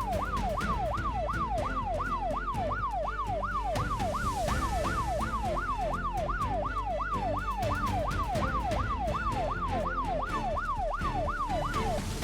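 Police siren in a fast yelp, sweeping up and down about three times a second, with background music playing underneath.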